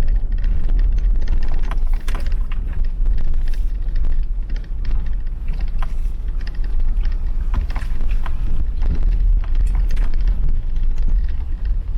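Vehicle driving slowly over a rough dirt road, with a steady low rumble and frequent small knocks and rattles from the bumpy surface.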